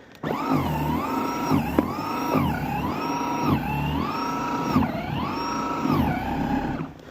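Battery-powered electric snow shovel's motor whining as it clears snow. It comes in five surges about a second apart: each time the pitch climbs, holds steady, then dips briefly before rising again.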